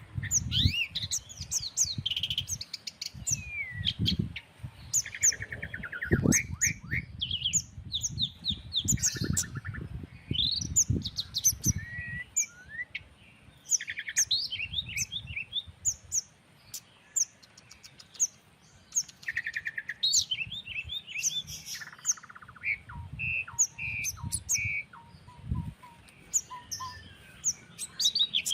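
A chorus of several songbirds chirping, trilling and calling over one another, with a run of short repeated notes near the end. Gusts of breeze rumble low on the microphone at intervals.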